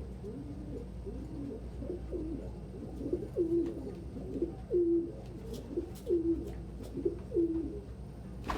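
Domestic cock pigeons cooing over and over, several birds' coos overlapping, as they vie for top place in the loft. The coos grow louder and more regular from about three seconds in, each a short rise ending on a held low note.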